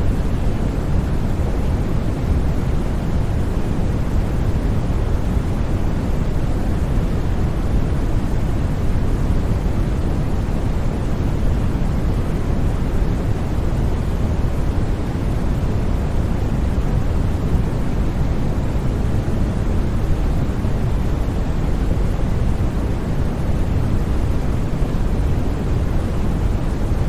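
Steady synthetic white noise for sleep: an even, unchanging rushing hiss, heaviest in the low range.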